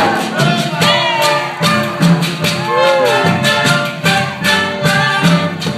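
Danzón music playing: a band with a brass melody over a steady Latin percussion beat.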